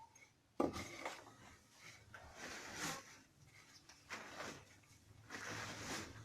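Household cleaning noises in a small room: a sharp knock about half a second in, then several scraping, swishing strokes, each about half a second long.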